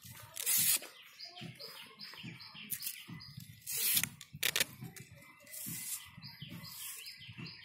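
Birds chirping in quick, repeated short calls, with a few brief rustling noises over them.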